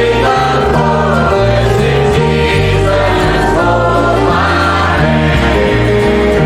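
A choir singing a gospel hymn with instrumental accompaniment and a steady bass line.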